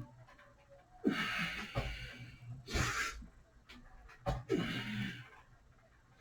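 A person breathing out hard three times, as with exertion; the first and last breaths carry a voiced note that falls in pitch, and the middle one is a short sharp blast.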